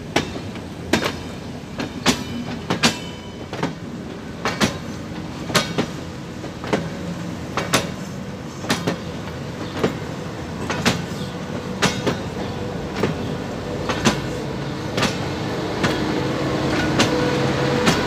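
Passenger train passing slowly at close range, its wheels clicking over rail joints about once a second over a steady rolling rumble. Near the end a steady hum from the locomotives rises as they come alongside.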